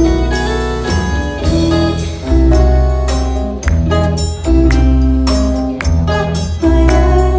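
Band music: an instrumental passage with a steady beat, drums and a bass line under pitched instruments, with no singing.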